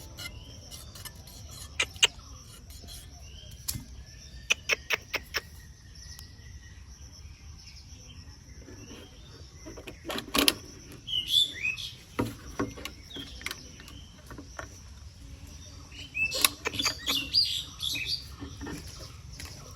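Small birds chirping in short calls, bunched together about halfway through and again near the end, with a few sharp clicks scattered through.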